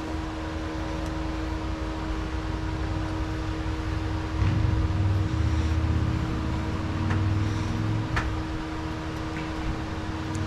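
A steady mechanical hum, like a fan or motor running, with a deeper rumble that swells from about four seconds in to about eight seconds in, and a few faint clicks.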